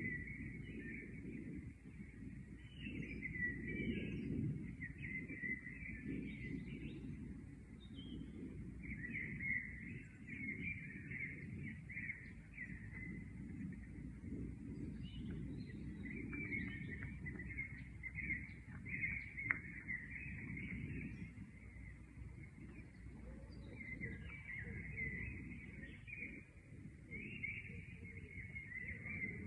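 Small birds chirping and twittering in short bouts with brief lulls between them, over a steady low background rumble.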